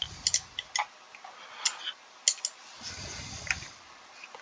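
Irregular light clicks and ticks, about a dozen, with a brief soft rustle about three seconds in.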